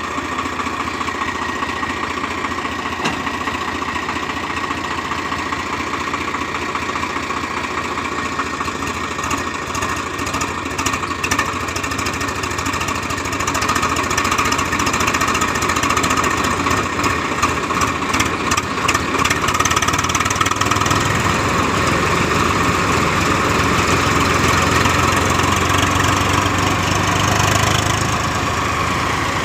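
Tractor engine running steadily under load, driving a chaff cutter; it gets a little louder about halfway through.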